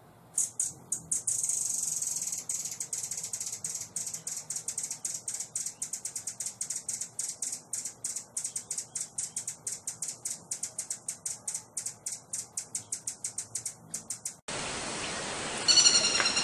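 A bird calls with a buzzy, high trill and then a long, steady series of dry, high clicking notes, about seven a second. Near the end the sound cuts abruptly to a different recording, where a clear whistled song begins.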